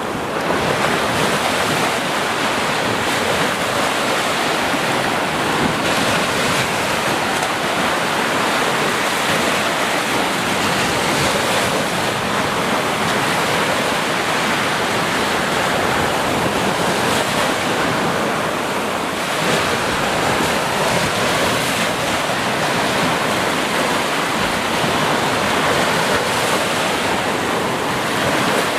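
Ocean surf washing onto a beach: a continuous, even rush of breaking waves that swells and eases only gently.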